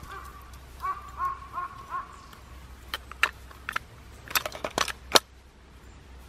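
A bird calling a quick run of short, arched notes in the first two seconds. Then, from about three to five seconds in, a series of sharp clicks and knocks as the plastic cap is fitted onto a gas canister, the loudest near the end.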